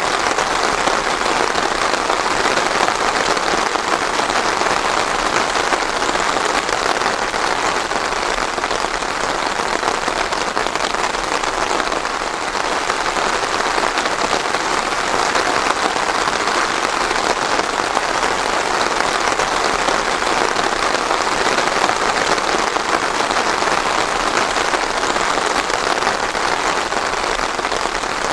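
Steady heavy rain falling on a surface, a dense even patter with no thunder.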